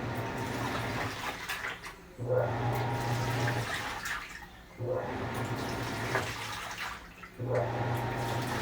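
Panasonic 12 kg top-loading washing machine agitating its load: the pulsator motor hums in spells of a second or so, about every two and a half seconds, with water sloshing through the clothes in between.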